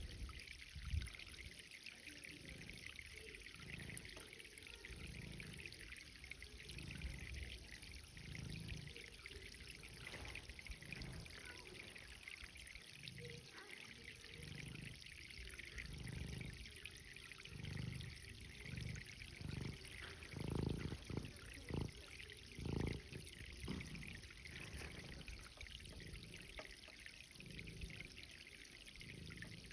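Irrigation water running and trickling steadily as the garden is watered, with occasional low rumbles, loudest about two-thirds of the way through.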